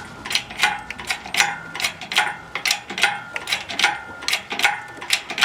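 Ratchet clicking at a steady pace, about two to three clicks a second, with a faint ringing tone behind the clicks.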